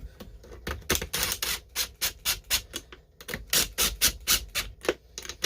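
Hand tools working on a chainsaw: a run of sharp metallic clicks and short scrapes, a few a second, in uneven bursts.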